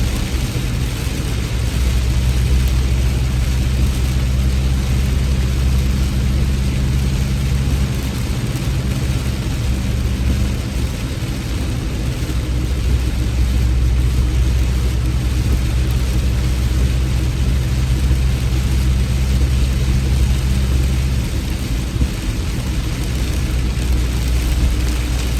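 Heavy rain falling steadily, over a constant low rumble.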